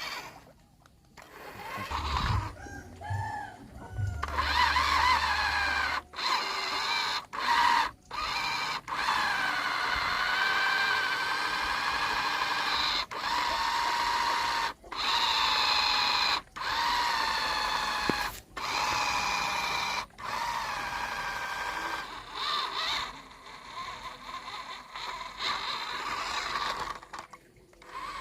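Small electric motor and gears of a radio-controlled toy truck whining, the pitch rising and falling with the throttle and cutting out briefly many times as the truck stops and starts.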